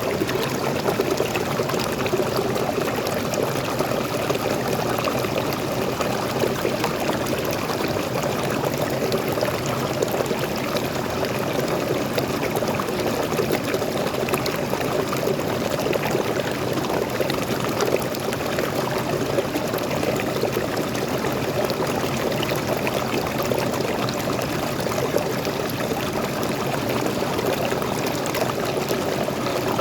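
Waterfall: water pouring and splashing steadily in an even, unbroken rush.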